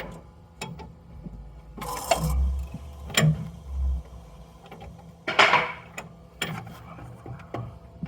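Ford 6.0 Power Stroke V8 turbo-diesel running rough with a misfire: a steady low idle broken by irregular, uneven knocks and clicks, with a few louder thumps.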